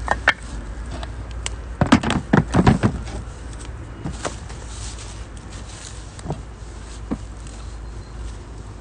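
Wood fire crackling and popping in a small stainless wood-burning stove, with scattered sharp snaps and a quick cluster of louder knocks and pops about two seconds in.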